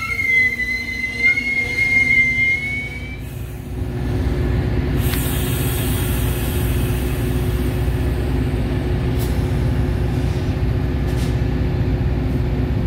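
A train's wheels giving a high, wavering squeal for about the first three seconds, then a steady low rumble from the train running past, with a faint click or two near the end.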